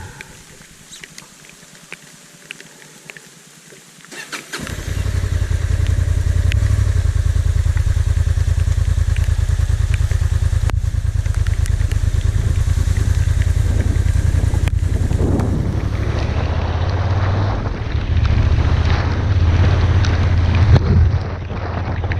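Motorcycle riding along, a strong low rumble with heavy wind noise on the microphone, starting about four seconds in after a quiet stretch.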